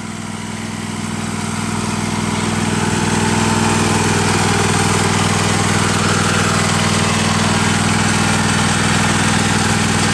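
Tractor engine running steadily, getting louder over the first few seconds and then holding even.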